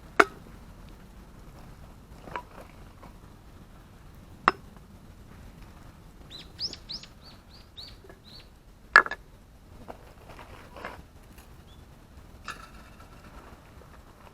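A bird sings a quick run of about eight short, high, arching notes in the middle. Sharp clicks sound four times, the loudest about nine seconds in.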